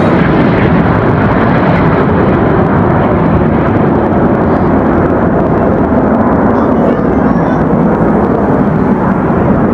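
Aircraft engine noise, loud and steady, with no clear rise or fall.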